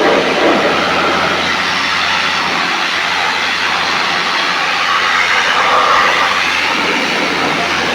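Steady loud rushing noise over a low, even motor hum.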